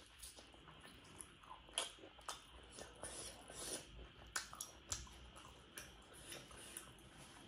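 A person chewing food, with irregular soft clicks and mouth smacks.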